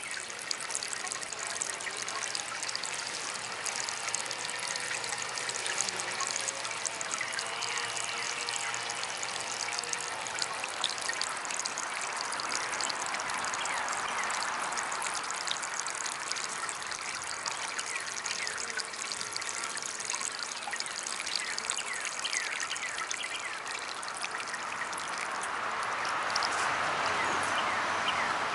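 Water trickling and splashing steadily from a small DIY garden fountain, with small drips throughout; it swells louder around the middle and again near the end.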